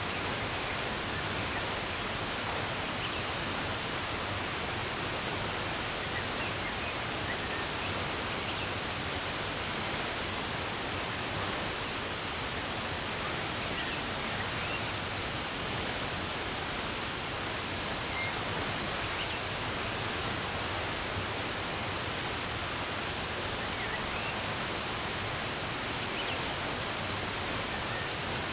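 Steady rush of running water, with faint, scattered bird chirps over it.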